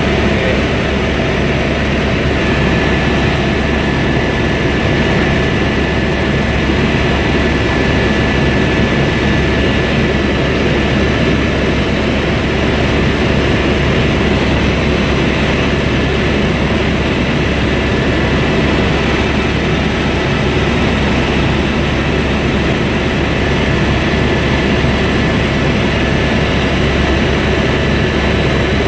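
Helicopter in flight, heard from inside the cabin: a loud, steady drone with several thin, steady whining tones on top, one of them setting in a couple of seconds in.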